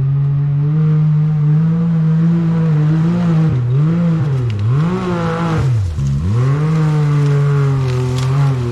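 Off-road vehicle's engine revving hard under load on a climb: the revs hold high, drop sharply and pick back up about four times.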